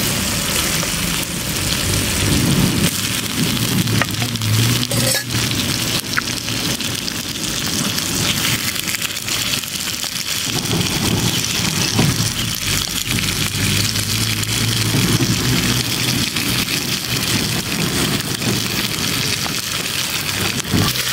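Onion and tomato sauté sizzling in hot oil in a clay pot as wet aloe vera gel pieces go in, with a few sharp clicks.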